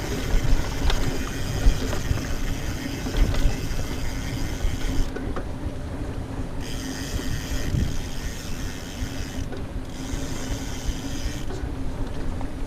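Mountain bike being ridden on a dirt trail: the rear freehub ratchets in a fast buzz while coasting, over the rumble and rattle of tyres and chain. The buzz cuts out twice, about five seconds in and again near ten seconds, as the rider pedals.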